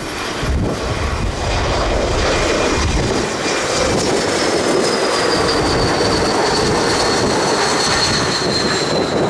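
Airliner engines passing close by, a loud steady whine that slides slowly down in pitch, with wind buffeting the microphone.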